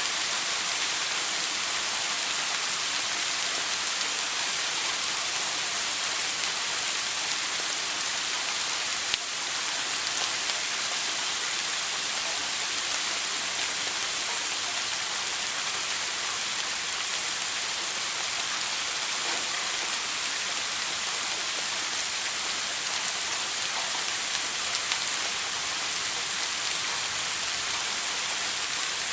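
Shower water spraying and splashing down in a steady, even hiss. A single brief click about nine seconds in.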